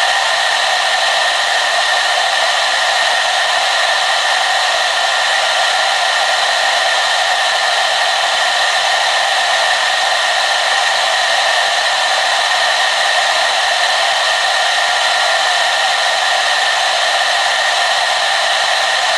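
Hair dryer running steadily, a constant airy whoosh of fan and blowing air with a faint steady whine in it, weighted toward the upper range with almost no low rumble.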